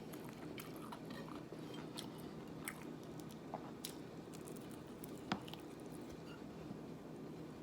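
A person chewing and eating a mouthful of rice and string bean adobo, with soft, scattered small clicks and smacks.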